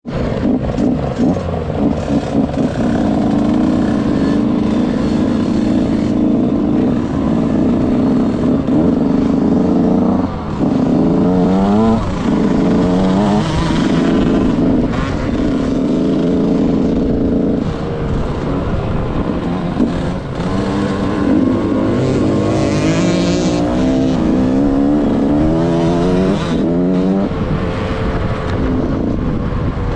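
KTM SX 65 two-stroke single-cylinder dirt bike engine running hard, its pitch climbing and dropping again and again as the throttle opens and closes through the gears.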